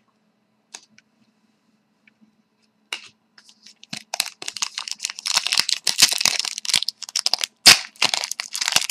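Hockey card pack wrapper being torn open and crinkled, a dense run of sharp crackling and tearing that starts about four seconds in after a near-quiet start.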